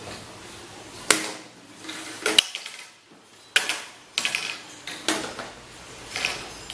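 A series of sharp clicks and knocks, about six, irregularly spaced, from objects being handled; no motor is running.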